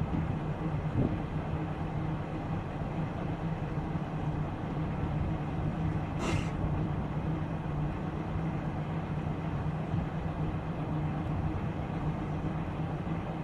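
Boat engine running steadily at an even speed, a constant low hum, with one brief high-pitched squeak about six seconds in.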